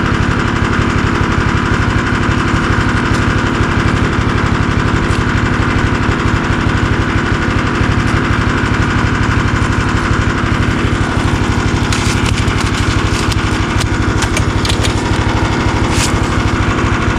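A small engine running steadily at an even speed, with a fast firing beat. Several sharp clicks sound over it in the last few seconds.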